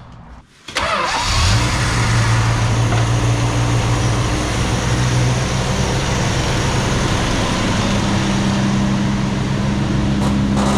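Hemi V8 engine in a 1969 International pickup starting up under a second in, catching at once and settling into a steady idle.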